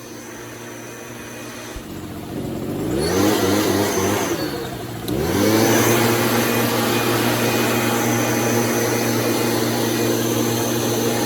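Stihl blower engine revving up from a low run about two seconds in, dropping back briefly near four and a half seconds, then revving up again and running steadily at high throttle. The blower is loaded with liquid fertilizer to spray the plants.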